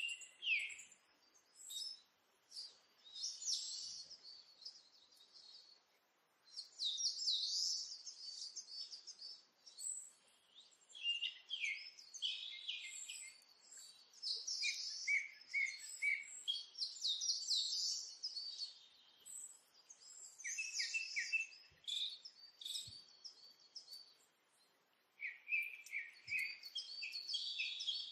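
Birds singing: phrases of quick, high chirps and trills with short pauses between them.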